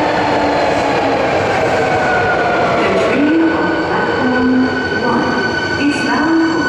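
Subway train running loudly along the station platform, its motor whine sliding slowly down in pitch as it slows.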